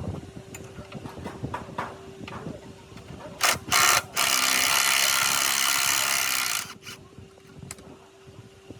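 Light clicks and taps of tool work, then two short hisses about three and a half seconds in, followed by a loud steady hiss lasting about two and a half seconds that cuts off suddenly.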